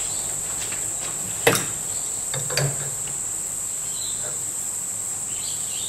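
A steady high-pitched whine runs underneath, with one sharp metallic click about a second and a half in and a few soft knocks a second later as hand tools are handled at the lathe.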